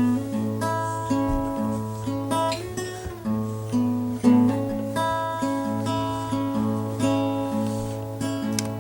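Acoustic guitar music: a run of plucked notes, about two to three a second, over a steady held low note.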